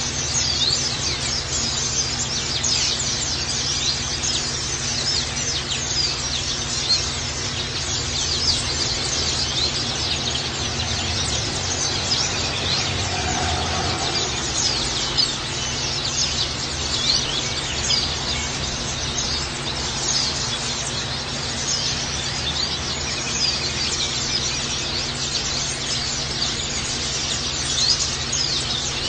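Many white-eyes (pleci) chirping and twittering continuously, a dense stream of short, high calls, over a steady rushing background that fits running water.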